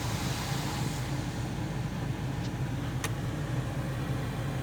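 Steady low hum of a car idling, heard from inside the cabin in an automatic car wash, with a hiss that fades after about a second and a single sharp click about three seconds in.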